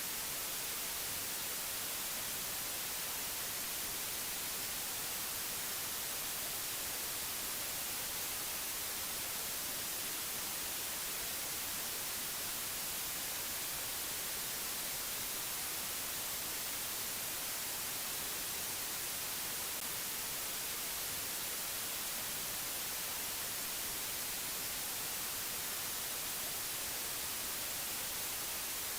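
Steady static-like hiss, even and unchanging, strongest in the high treble.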